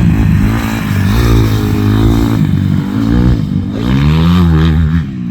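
2005 Honda CRF250R dirt bike's four-stroke single-cylinder engine, ridden on practice laps, its revs rising and falling repeatedly as the throttle is opened and closed.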